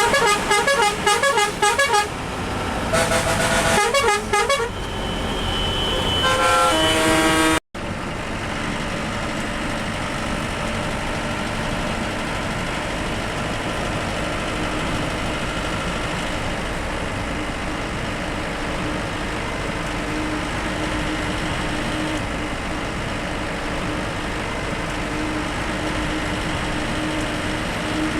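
A rhythmic run of changing horn tones for about seven seconds, like a bus musical horn. After an abrupt cut, a moving bus's engine and road noise runs steadily.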